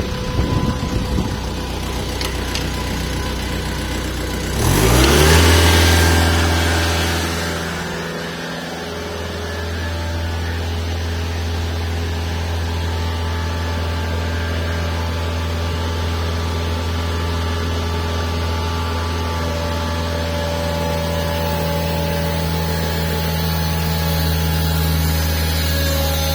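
Deutz engine running, then revving up sharply about five seconds in. It holds a steady, higher engine speed for the rest of the time, with a short dip in loudness a few seconds after the rev-up.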